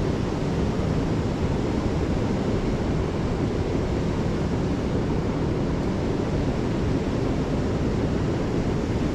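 Steady rushing of a waterfall's falling water, an even, unbroken noise heaviest in the low range.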